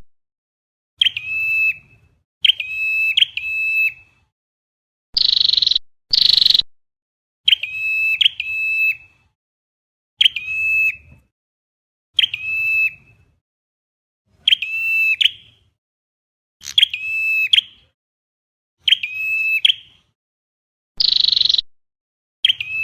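Recorded flowerpecker calls played as a trapping lure: short, sharp, high-pitched calls repeated about every two seconds, some given as quick doubles or triples. Three louder, harsher buzzy calls come about five seconds in, about six seconds in, and near the end.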